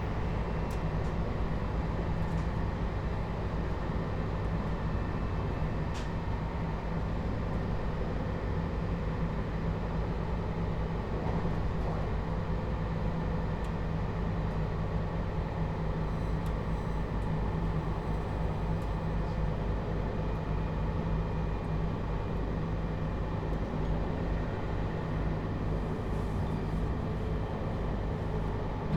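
Steady running noise of a JR Hokkaido 721 series electric train heard inside the motor car at an even speed between stations, with wheels on rail and a low hum.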